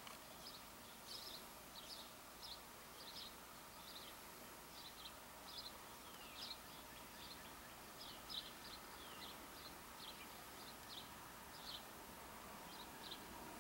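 Small birds chirping faintly: short, high chirps repeated two or three times a second, over a quiet steady background hiss.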